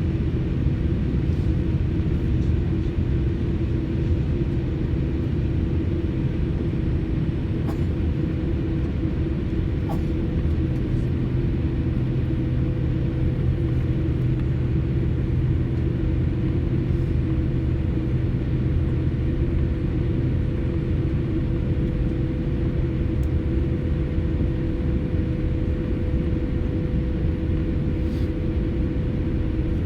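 Airliner cabin noise before takeoff: a steady low rumble from the jet engines at idle, with a few constant hum tones, heard from inside the cabin. There are a couple of faint clicks about eight and ten seconds in.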